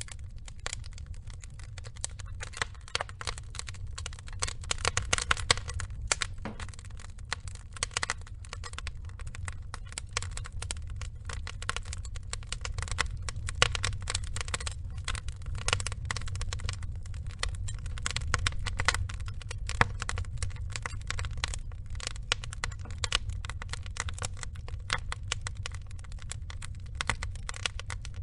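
Burning wood logs crackling, with dense irregular snaps and pops over a steady low rumble of the fire; the pops come thicker and louder around five seconds in and again a little past the middle.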